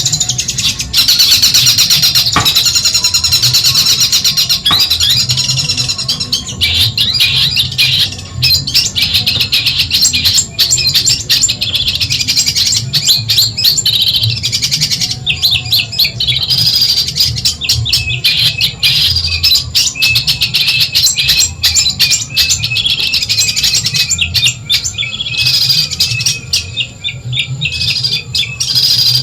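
Cendet (long-tailed shrike) singing a dense, fast, harsh chattering song of rapid clicking and scratchy notes, with hardly a break.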